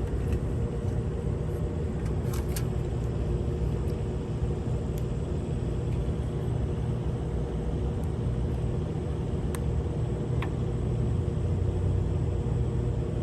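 Steady low rumbling hum with a faint steady tone in it, and a few light clicks about two seconds in and again near the ten-second mark.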